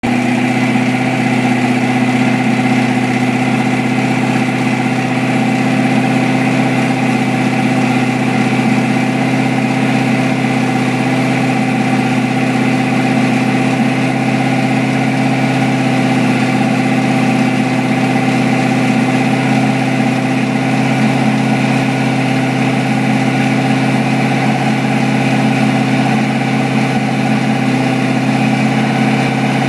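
Car engine idling at a steady, unchanging pitch.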